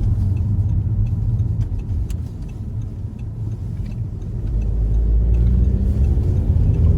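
Car driving, heard from inside the cabin: a steady low engine and road rumble with faint regular ticking. From about halfway it grows louder, and near the end the engine note rises as the car speeds up.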